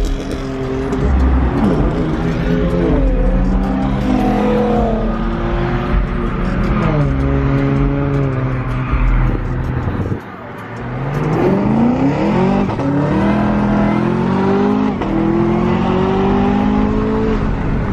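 Chevrolet Camaro ZL1's supercharged V8 accelerating hard through the gears. The pitch climbs and drops back at each upshift, with a brief lift off the throttle about ten seconds in before it pulls again.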